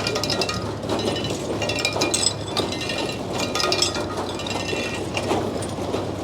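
Frick sawmill machinery running, with repeated bursts of metallic ratcheting and clattering about once a second over a steady low hum.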